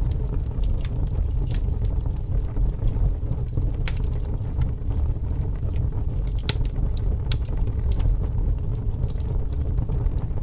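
Fire burning with a steady low rumble of flames and irregular sharp crackles and pops, several every second or two.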